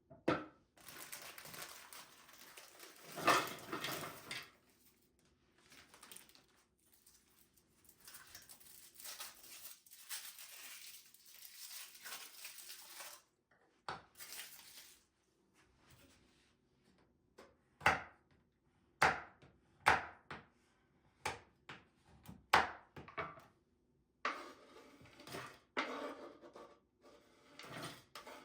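Kitchen handling sounds: stretches of rustling and scraping, with a run of short knocks and clinks of dishes or utensils in the middle.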